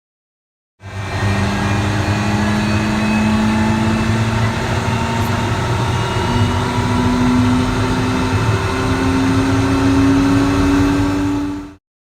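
Light aircraft's piston engine and propeller running steadily, with a strong low hum and a tone that creeps slowly up in pitch. It cuts in abruptly about a second in and stops just as abruptly near the end.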